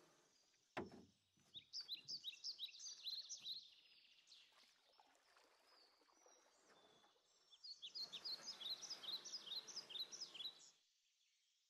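Faint songbird singing: two bouts of rapid, high chirping notes, the first about a second and a half in, the second about two-thirds of the way through, over a light outdoor hiss. A single sharp knock sounds just under a second in.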